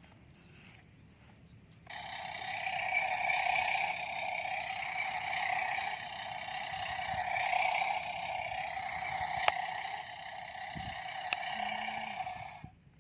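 A toy construction vehicle's engine sound runs steadily for about eleven seconds, starting and cutting off abruptly. Two sharp clicks come near the end.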